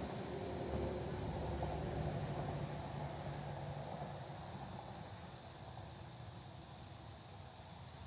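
Steady, high-pitched insect chorus from crickets, with a low rumble in the first half that fades about four seconds in.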